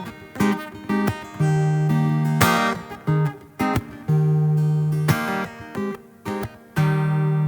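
Carbon fiber acoustic guitar strummed in a rhythmic pattern, chords left ringing between short muted strokes.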